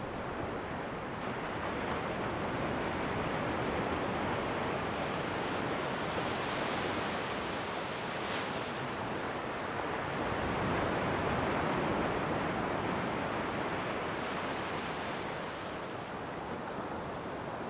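Ocean waves: a continuous rushing wash that swells and eases, with a brighter hiss of breaking surf about a third of the way in and another swell just past the middle.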